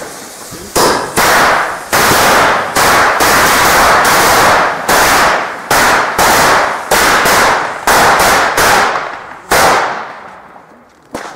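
Fireworks going off in a rapid series of loud bangs, roughly two a second, each trailing off in a noisy crackle. The barrage stops about nine and a half seconds in and fades, with a couple of faint bangs near the end.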